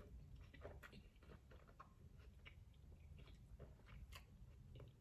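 Faint close-up chewing of a taco: soft, irregular mouth clicks and light crunches.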